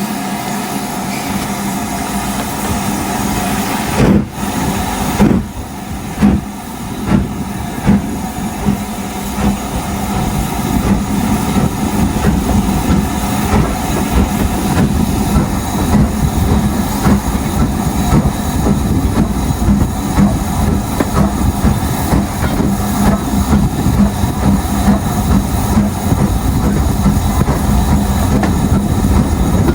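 Train running behind LMS Stanier Class 8F steam locomotive 48305, a steady rumble of wheels on rail with a rhythmic pulse. Two sharp knocks come about four and five seconds in, and the running grows louder from about ten seconds on.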